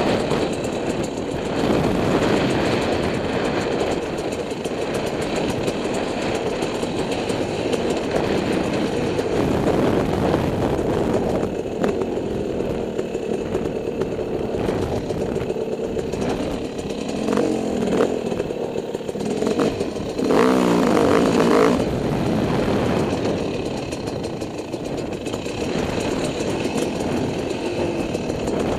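Dirt bike engine running under changing throttle, its pitch rising and falling, with scattered knocks and clatter. A louder burst of revving comes about twenty seconds in.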